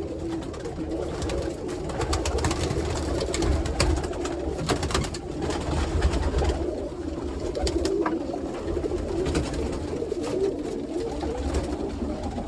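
Many roller pigeon cocks cooing together in a loft, a steady, dense coo, with scattered sharp clicks and flutters among them.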